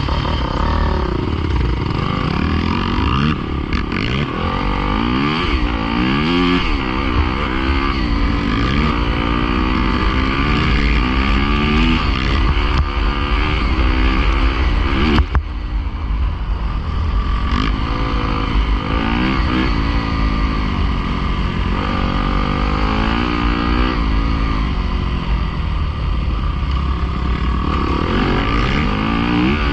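Pit bike engine revving up and down over and over as it is ridden hard, over a heavy low rumble; one sharp click about halfway through.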